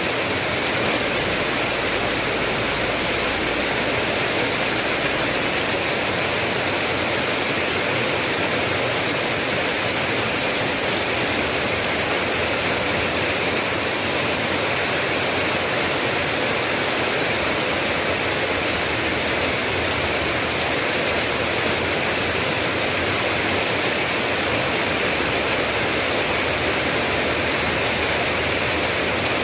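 Steady, continuous rain noise, an even hiss with no single drops or changes standing out.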